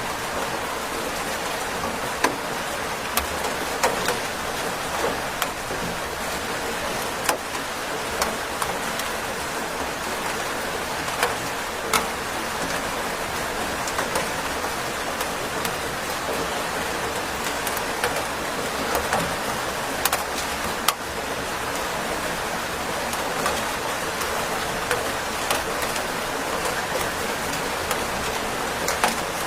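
Steady rain falling, a dense even hiss with scattered louder drops striking close by.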